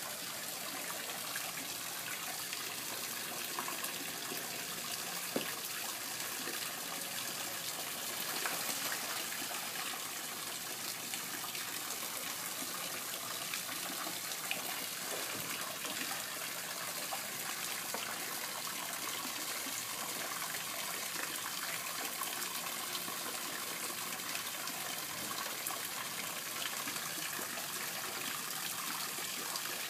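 Koi pond water trickling and running steadily, with a few faint, short splashes.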